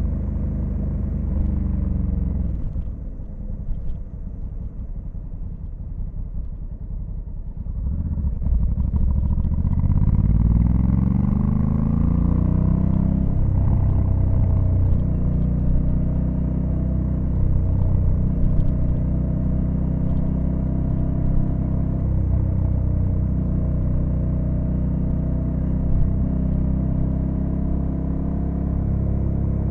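Honda Africa Twin CRF1100L's 1084 cc parallel-twin engine on the move. The engine eases off, quieter and lower, for about five seconds, then accelerates hard with a rising note about eight seconds in and settles into a steady, louder run.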